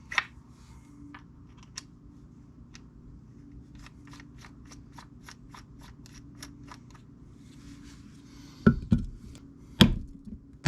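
Hammer tapping on a punch to drive a bearing out of an aluminum differential case: a run of light, quick taps at about four a second, then three hard blows near the end.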